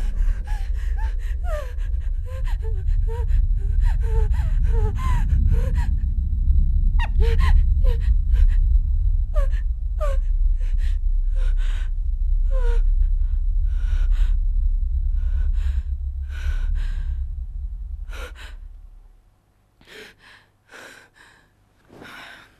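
A young woman's frightened gasping and panting, quick short breaths with small voiced catches, over a deep low rumble. The rumble fades out about three-quarters of the way through, leaving a few fainter breaths.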